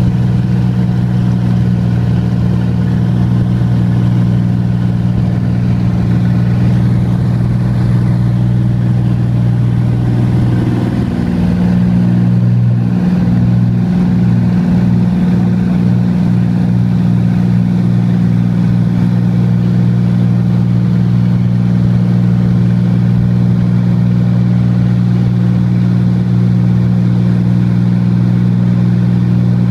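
Cessna 182's single piston engine and propeller running at takeoff power, a loud steady drone. The pitch wavers and shifts slightly about eleven seconds in, then holds steady.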